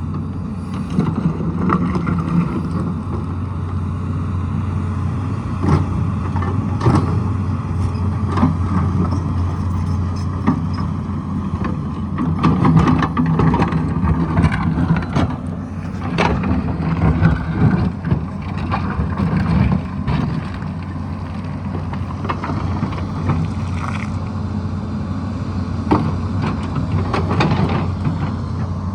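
Tata Hitachi hydraulic excavator's diesel engine running steadily, its note rising and falling with load, under repeated knocks and scrapes of the bucket working rock and soil.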